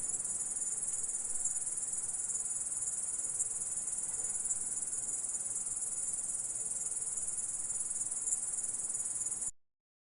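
Insect stridulation: a dense, continuous high-pitched trill that cuts off abruptly near the end.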